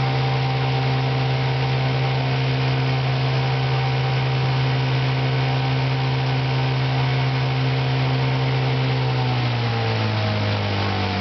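1959 Johnson 5.5 hp two-cylinder two-stroke outboard motor running steadily, then throttling down with a falling pitch near the end.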